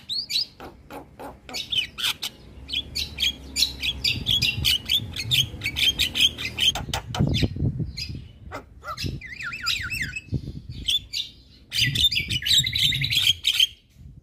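Javan myna singing vigorously: a fast jumble of clicks, chirps and squawks, with a run of quick repeated whistled notes about nine seconds in, then a brief pause and a last dense burst near the end. A low rumble sits beneath much of it.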